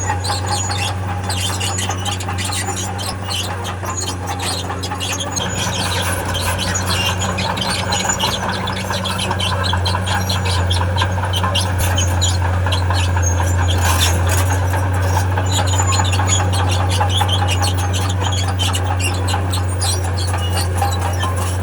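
Crawler bulldozer moving with its diesel engine running steadily and its steel tracks squealing and clattering.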